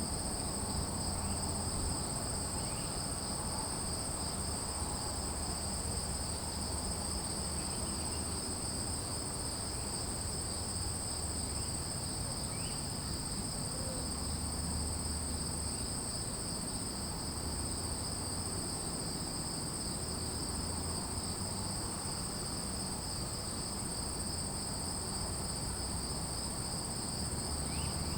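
Chorus of crickets or similar insects trilling without a break, a steady high shrill drone at two distinct pitches, over a low rumble, with a few faint short chirps here and there.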